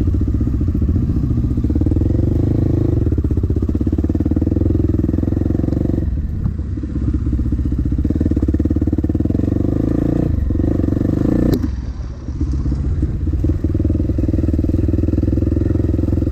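Dirt bike engine running hard on the trail, with the throttle rolled off and back on a few times around the middle. A single sharp knock comes just before the deepest dip.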